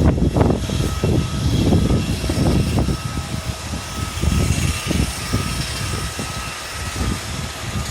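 Wind buffeting the microphone in irregular gusts, over the steady high whine of jet aircraft engines running at the airport.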